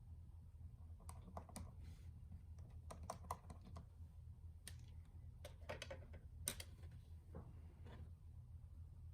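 Scattered light clicks and taps at an irregular pace, a few in quick succession about a second in, around three seconds in and again past six seconds, over a faint steady low hum.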